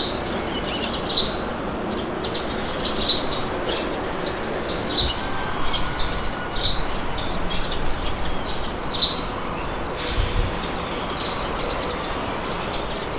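Steady wind blowing, with small birds chirping in short, repeated calls throughout and a brief low thump about ten seconds in.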